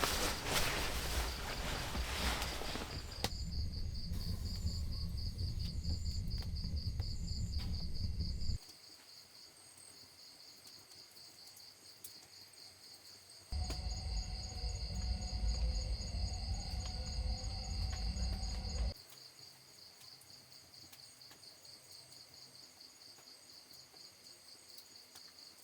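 Insects, likely crickets, chirring steadily: a high, rapidly pulsing trill that runs on throughout. A low rumbling noise covers it for the first eight seconds or so and again for about five seconds in the middle, each time cutting in and out abruptly.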